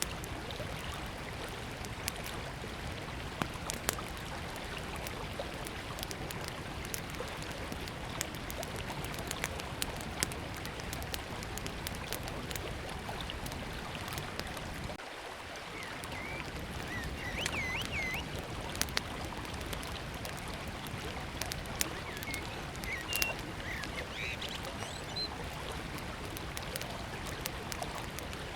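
Small wood campfire crackling and popping over the steady rush of a river. From about halfway in, a bird sings in short, curving whistled phrases.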